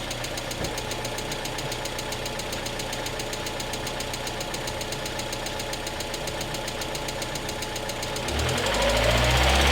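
1991 Mazda Miata's 1.6-litre inline-four running at idle with a rapid, even lifter tick from the valvetrain. Near the end the sound gets louder, with a low rumble.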